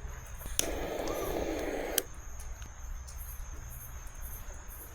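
Crickets chirping steadily at night. About half a second in comes a louder rushing noise of about a second and a half, which begins and ends with a sharp click.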